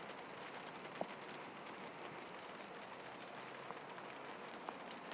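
Steady rain falling, with a few sharp drips about a second in and again near the end.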